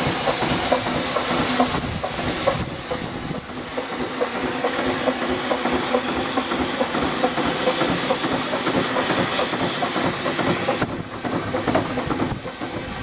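Steady hiss of escaping steam from a half-scale Burrell Gold Medal steam tractor, with a dense patter of small ticks through it; the hiss eases briefly twice.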